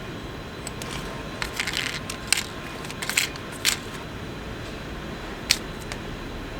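Sharp clicks and crinkling handling noises, several between about one and a half and four seconds in and one more near five and a half seconds, over a steady low rumble.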